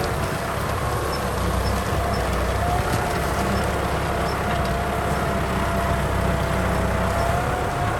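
Kubota M6040 tractor's diesel engine running steadily, a low rumble with a steady whine above it.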